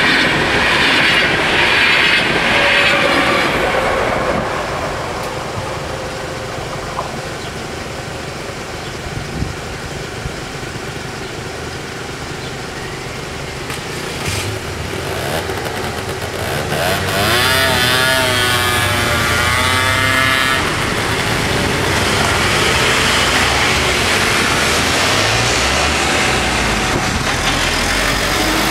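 The tail of a Trenitalia double-deck regional train passes over the level crossing, its noise fading within the first few seconds. After a quieter stretch, car and scooter engines rise, with a wavering pitched sound in the middle, and the traffic moves off across the tracks once the barriers lift.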